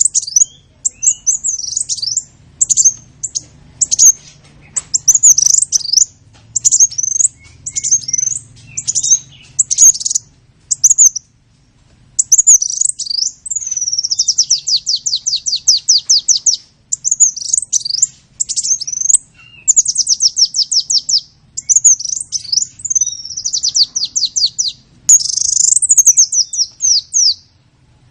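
A small songbird singing on and on: high-pitched chirps and whistled phrases with several fast trills of rapidly repeated notes, and a short pause about eleven seconds in.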